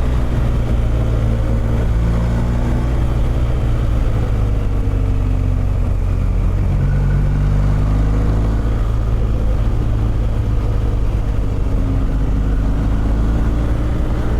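Motorcycle engine running steadily while riding along, its note rising and falling a little with the throttle.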